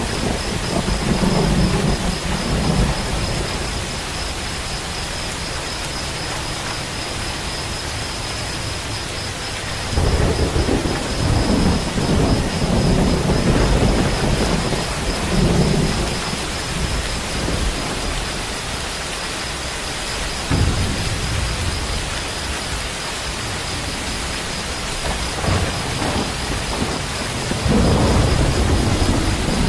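Steady heavy rain with rolls of thunder, the longest rumbling starting about ten seconds in and another near the end.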